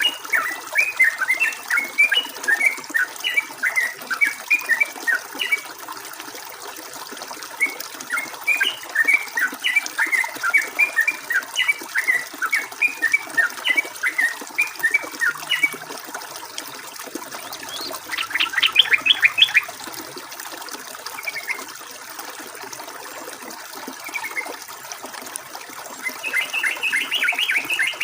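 Yellow-vented bulbul (trucukan) singing in rapid chattering phrases. Four bursts come in turn: a long one at the start, another about eight seconds in, a short fast trill around eighteen seconds, and one near the end. A steady hiss of flowing water runs beneath.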